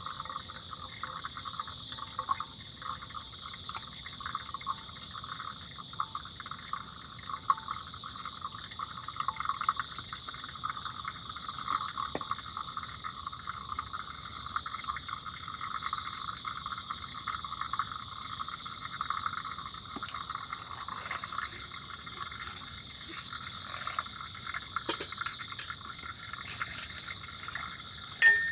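Steady chorus of calling insects, crickets among them. One high trill repeats in bursts about a second long, over a continuous lower chirping. A single sharp click comes just before the end.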